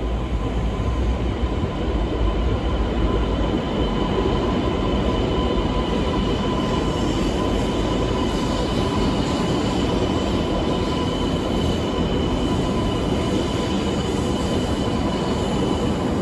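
E2 series 1000 Shinkansen, fitted with Mitsubishi IGBT VVVF inverters, pulling into the platform and slowing, with steady rolling rumble and a thin steady high whine.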